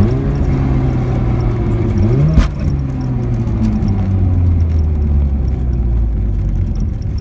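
Mazda RX-7 FC3S rotary engine pulling the car away from a standstill: the revs rise, hold, then rise again, and a sharp clack sounds about two and a half seconds in. After that the revs slowly fall. The car makes an abnormal noise under acceleration that the owner cannot explain.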